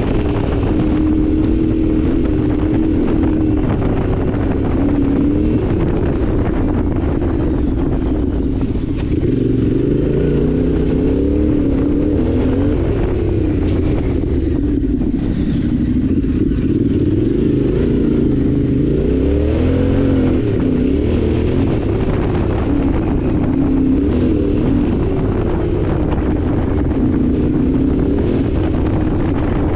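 Yamaha Ténéré 700's parallel-twin engine running while riding, its pitch rising and falling again and again with throttle and gear changes, over a steady rush of wind noise.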